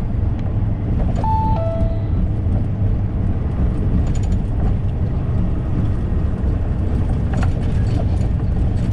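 Steady low engine and road rumble inside a truck cab while driving. About a second in, a short electronic two-note chime falls from a higher note to a lower one.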